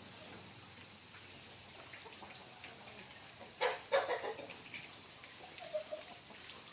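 Steady rain falling, with a chicken giving two loud clucking calls a little past halfway and a few fainter calls after.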